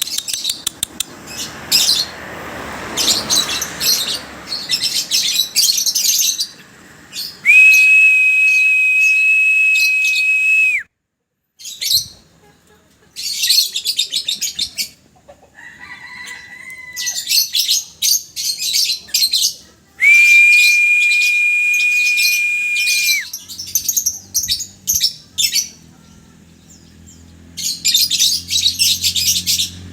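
Lovebirds chattering in rapid bursts of shrill chirps. Twice, a steady high tone is held for about three seconds, starting and stopping abruptly.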